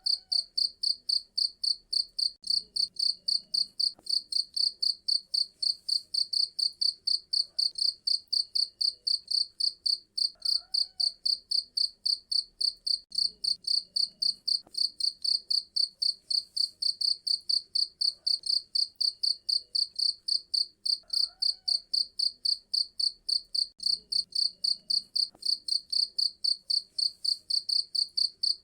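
A cricket chirping in a steady, even rhythm of about three high-pitched chirps a second.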